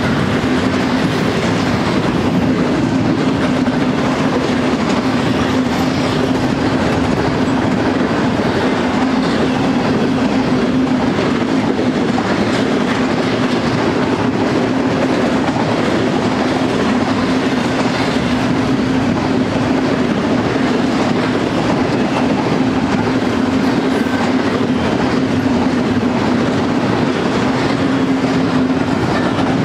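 Double-stack intermodal freight train's container well cars rolling past: a steady rumble of steel wheels on the rails with a constant low hum under it.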